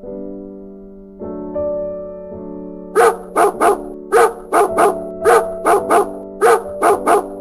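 A dog barking in four quick runs of three barks, starting about three seconds in, over soft piano music.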